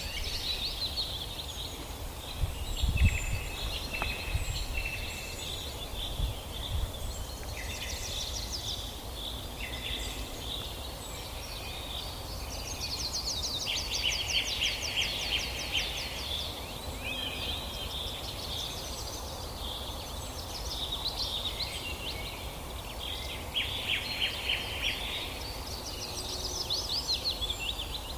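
Several birds singing and chirping at once, overlapping trills and repeated chirps throughout, over a low rumble.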